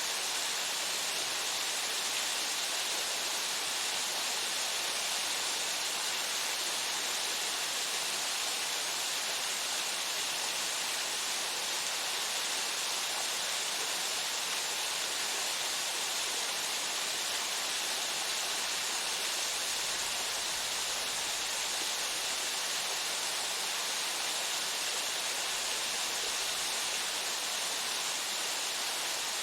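Waterfall pouring steadily into its pool: an even, unbroken hiss of falling water, mostly high-pitched with little low rumble.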